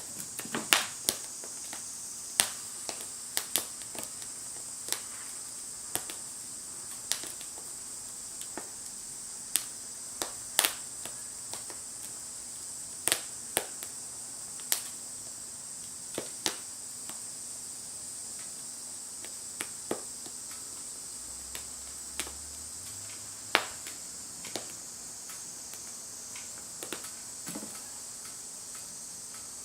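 Wood fire crackling in a Firebox stove: irregular sharp pops and snaps, several loud ones, over a steady high-pitched hiss.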